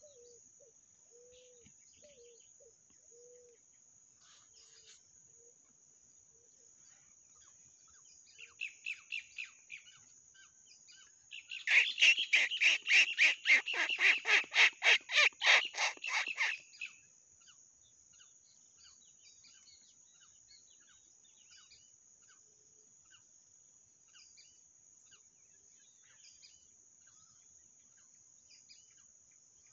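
A bird calling in a rapid series of about twenty sharp notes, about four a second, lasting some five seconds near the middle, after a shorter, fainter run of notes. Soft low hoots repeat at the start.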